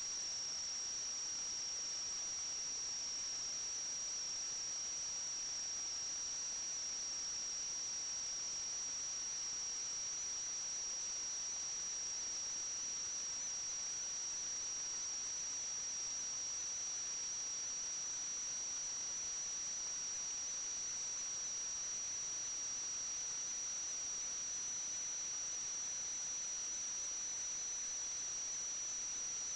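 Steady high-pitched electronic whine over a constant hiss, unchanging throughout: the recording system's own electrical noise, with no other sound.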